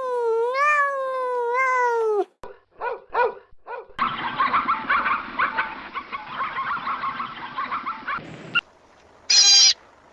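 A string of animal calls: a long, wavering pitched call that falls away at the end, then a few short calls, then a dense chatter of many animals calling at once, and a brief high-pitched call near the end.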